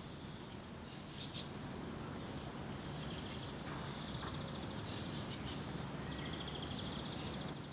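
Birds chirping in several short, high trilled phrases, over a low steady background hum.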